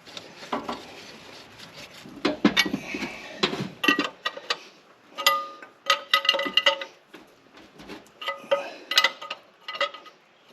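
Metal hand tools clicking and clinking against metal fittings in quick clusters of sharp taps, some ringing briefly, while the turbo pressure feed line is tightened.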